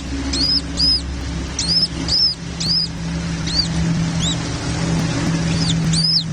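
Nestling birds calling: short, high, squeaky chirps, each rising and falling, repeated in quick pairs and small groups over a steady low hum.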